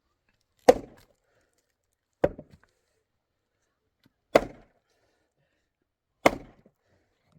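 Four sharp, heavy blows, about two seconds apart, each dying away quickly.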